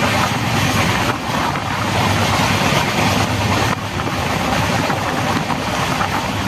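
Express train running along the line: a steady rush of wind and rail noise with a low rumble underneath.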